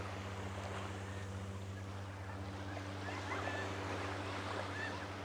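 A steady low hum with a faint wash of small waves and wind.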